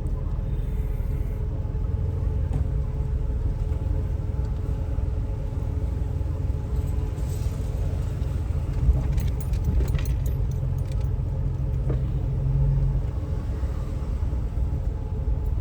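Jeep heard from inside the cabin: a steady low engine and road rumble, with a few light clicks and jingles about nine to eleven seconds in.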